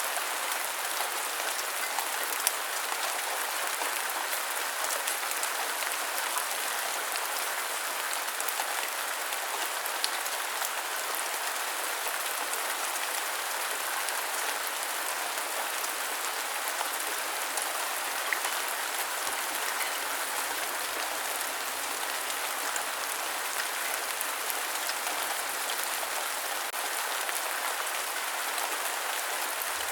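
Steady rain, an even hiss with a few sharper drop ticks now and then.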